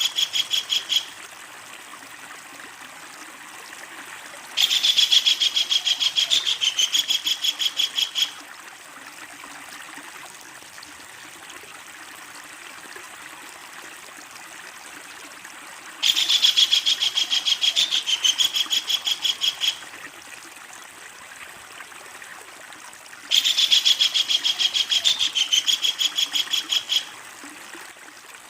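Kingfisher calling in long, loud rattling bouts of rapid repeated notes, the long 'ngekek' laughing call. The first bout ends about a second in, and three more each last about three and a half seconds, with a steady background hiss between them.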